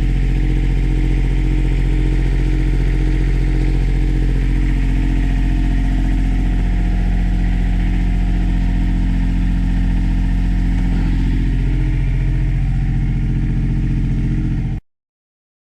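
Northern Lights 4.5 kW diesel generator running steadily up close, an even unchanging drone. The sound cuts off abruptly near the end.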